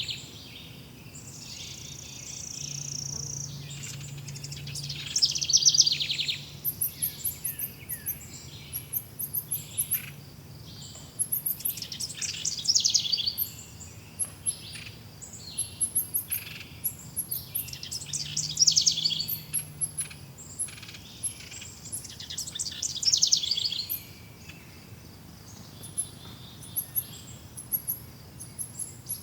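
Several birds singing: loud trilled phrases recur every few seconds, over thin, very high chirping that keeps up from about a quarter of the way in.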